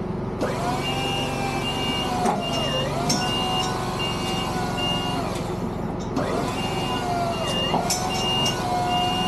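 Skyjack scissor lift's brushed electric hydraulic pump motor running with a steady whine, stopping about six seconds in and starting again. The lift's motion alarm beeps about one and a half times a second while it runs. With its brushes freshly cleaned, the motor runs smoothly.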